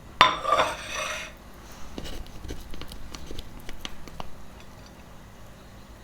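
Kitchenware being handled: a short scraping clatter at the start, then a scatter of light taps and clicks that die away.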